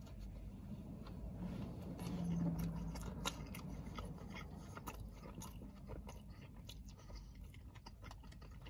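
A person biting into and chewing a coney dog: a soft steamed bun with chili sauce and chopped onions, giving quiet wet chewing with small clicks of the mouth. A brief low hum comes about two seconds in.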